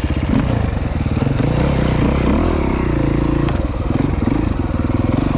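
Dirt bike engine running near idle, its pitch rising and falling briefly about two seconds in, then settling steady again.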